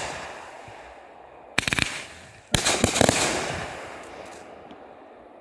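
Fireworks going off in two quick volleys of rapid cracks, the second about a second after the first and longer, each leaving a crackling hiss that fades away.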